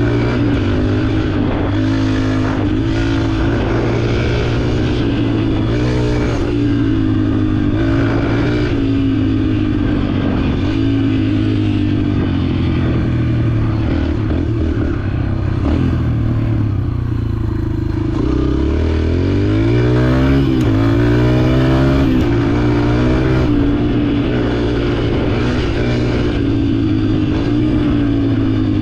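Dirt bike engine running under way, its revs rising and falling with the throttle, with a dip about halfway through and a rising rev soon after.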